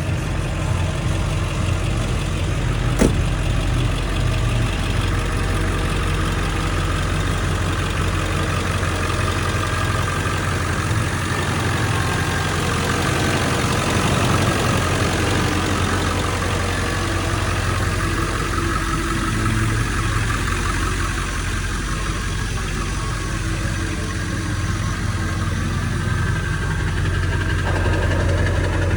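Ford F-350 Super Duty's 7.3-litre Power Stroke turbodiesel V8 idling steadily, with one sharp click about three seconds in.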